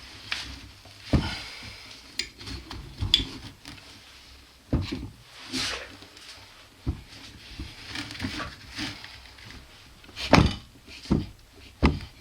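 Handling noises from working on a backpack's sternum strap: irregular knocks and clicks with rustling in between, a few sharper knocks near the end.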